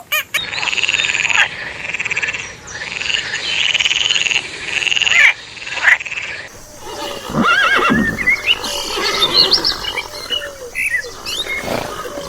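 Animal calls: about four long rasping calls in the first five seconds, then a jumble of rising and falling cries.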